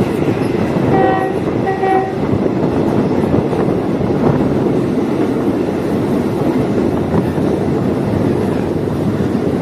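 Diesel multiple unit railcar running along the track with a steady rumble, its horn giving two short toots about one and two seconds in.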